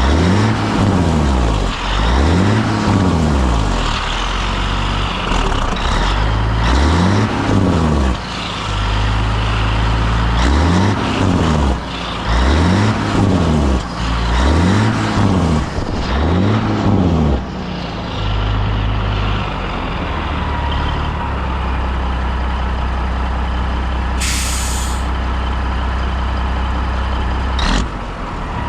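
A 1981 Peterbilt 359's diesel engine revved up and let fall back over and over, about one rev every two seconds, then settling into a steady fast run. Late on, a short burst of air hiss.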